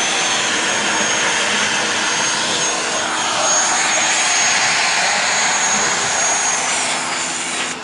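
KPT Shakti pressure washer running, its high-pressure water jet making a steady loud hiss with a thin high whine over it.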